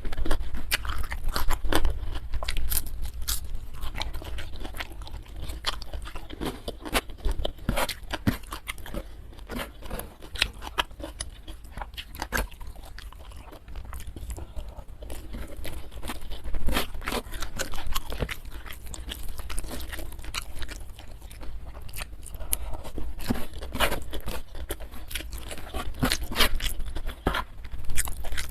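Close-miked eating sounds: a person chewing and biting crunchy food, with irregular crackling crunches and wet mouth clicks throughout.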